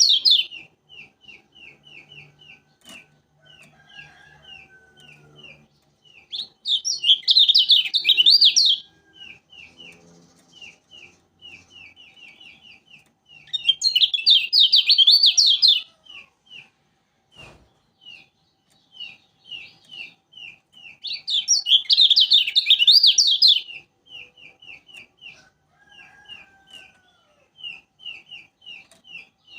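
Kecial kuning white-eye singing: loud, fast warbling phrases of two to three seconds, four times, with a steady run of short, high chips, about three a second, between them. A single sharp click about halfway through.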